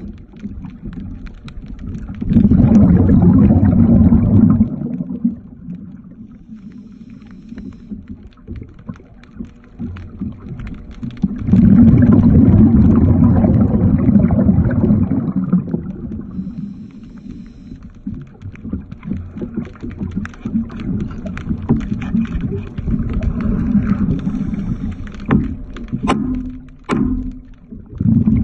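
Underwater bubbling and rumbling in loud surges a few seconds long, about two seconds in and again about twelve seconds in, with quieter gurgling between. The surges fit a diver's exhaled breath leaving the regulator while working on the hull. A few sharp clicks come near the end.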